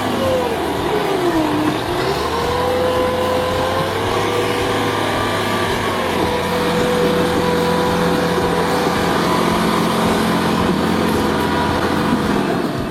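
An engine running hard under load. Its pitch dips sharply and recovers within the first two seconds, then holds steady, with the loudness easing off right at the end.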